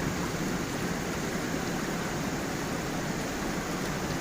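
Water of a gentle forest stream and small waterfall flowing over stones: a steady, even rushing.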